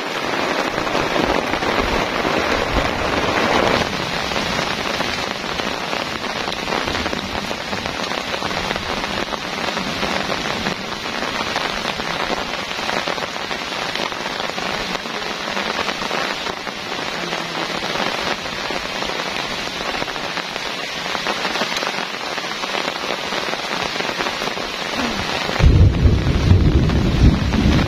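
Heavy downpour falling steadily on a tarp shelter and the surrounding vegetation. Near the end a louder low rumble comes in, gusting wind buffeting the microphone.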